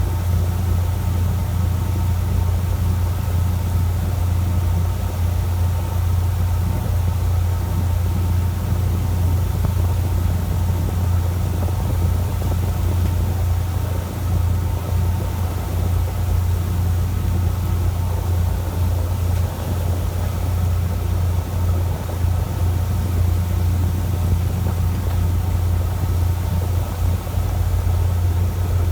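A fishing boat's engine running steadily, a constant low hum with the rush of the boat underneath.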